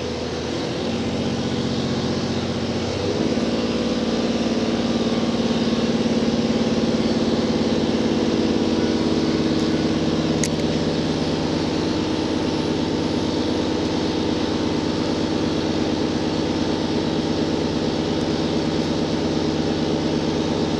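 JR Hokkaido H100 diesel-electric railcar heard from inside, its diesel engine and traction drive working as the train pulls away. A set of humming tones climbs in pitch over the first three seconds, then settles into a steady hum.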